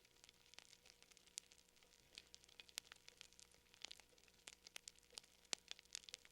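Wood fire crackling: faint, irregular snaps and pops, several a second, over a low steady hum.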